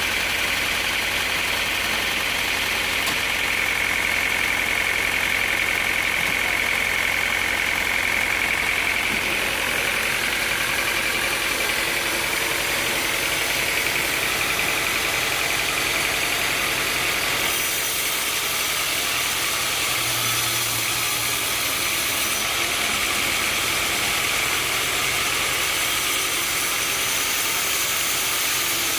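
Sawmill machinery running steadily with an engine hum. A high whine comes in a few seconds in and fades out after several seconds.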